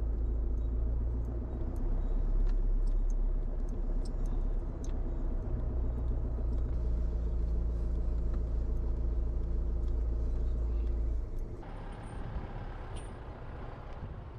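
A car engine running with a steady low drone. About eleven seconds in the drone drops away, leaving a quieter hiss.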